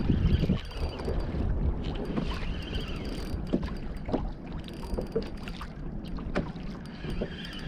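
Water slapping and lapping against a kayak hull, with wind buffeting the microphone and scattered light clicks and knocks.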